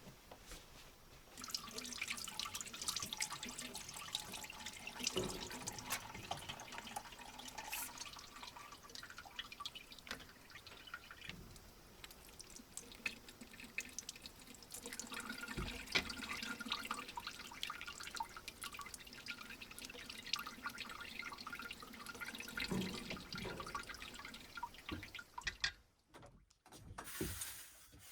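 Water splashing and dripping, with many small irregular drips and ticks.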